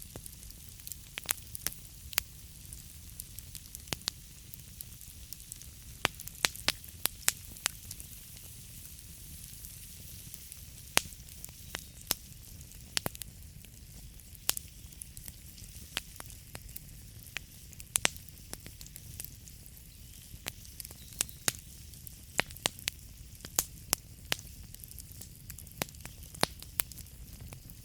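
Wood fire burning in a fireplace, crackling with irregular sharp pops and snaps over a steady hiss and a low rumble.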